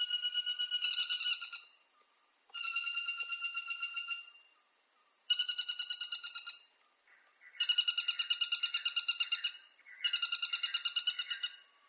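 Woodpecker giving a rapid rattling call, a fast run of about ten sharp, identical notes a second, repeated in five bouts of a second and a half to two seconds each with short pauses between.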